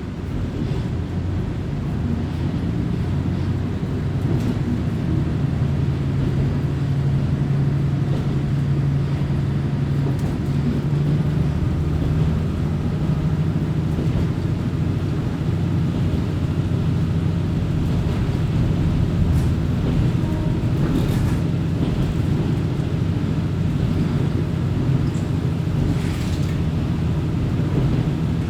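Diesel railcar's engine running under power, heard from inside the car: a low drone that grows louder over the first few seconds, then holds steady with the rumble of the train running. A few faint clicks come near the end.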